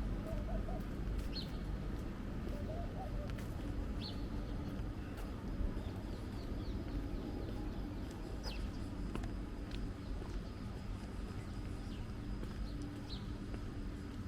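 Early-morning street ambience: a steady low hum of distant traffic, with a bird giving short high chirps every few seconds.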